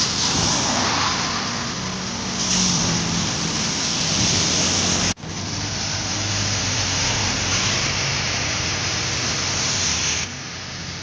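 Steady rain hiss with a vehicle engine running underneath. The sound cuts out for an instant about five seconds in, and the hiss drops in level near the end.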